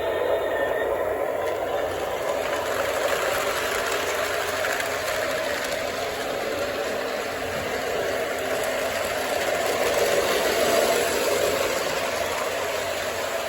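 O gauge model train running along its track: a steady whirring of motor and wheels on rail that swells slightly about ten seconds in.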